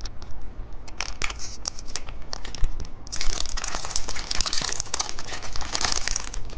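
Gold wrapper of a chocolate surprise egg being torn and crinkled open by hand, with many small sharp crackles. The rustling grows denser and louder about three seconds in.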